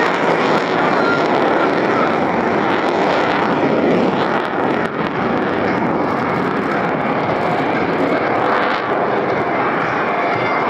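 Jet noise from the HAL Tejas fighter's single F404 turbofan in flight: a loud, steady rush that holds throughout, easing slightly about halfway.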